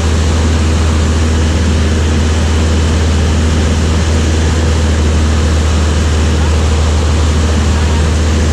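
Light propeller aircraft's engine and propeller droning steadily at an even, loud level, with a strong low hum.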